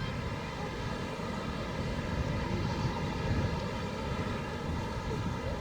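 A steady drone holding one pitch throughout, over a low rumbling noise like wind buffeting the microphone.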